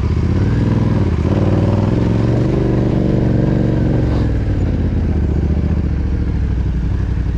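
Yamaha Ténéré 700 motorcycle engine running under load on a trail ride, its revs rising and falling. The engine settles into a steadier, lower note about four and a half seconds in.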